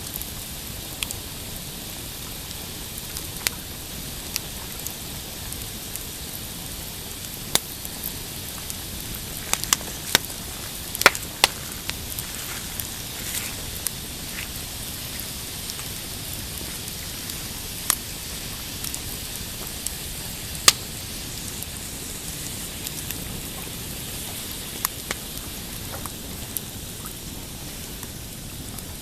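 Pine campfire crackling under a steady hiss, with scattered sharp pops from the burning wood, a few louder snaps about ten and twenty seconds in.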